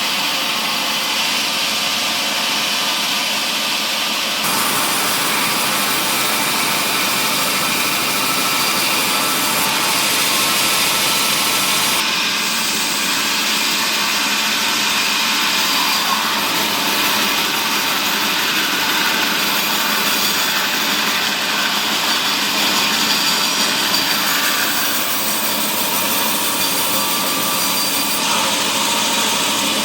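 Sawmill machinery running and sawing mahogany timber: a loud, steady machine and cutting noise whose character shifts slightly a few seconds in.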